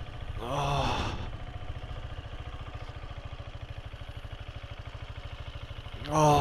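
Motorcycle engine idling with an even, steady pulse. Two short pitched calls cut in over it, about half a second in and again near the end, the second one louder.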